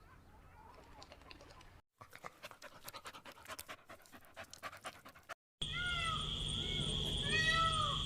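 Animal sounds in three short cuts. First a faint stretch, then a quick run of short breathy clicks, then a steady high buzz with repeated short calls that rise and fall.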